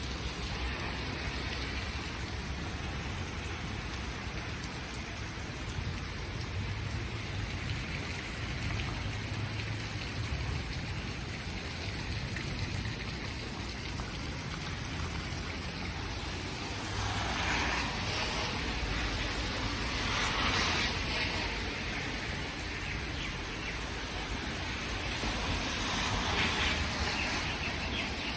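Steady rain falling, an even hiss of rain with a few louder swells of rain noise past the middle and near the end.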